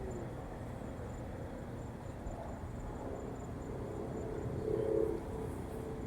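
Outdoor night ambience: faint, evenly pulsing high insect chirping throughout, with a low humming tone that comes in about halfway and swells near the end.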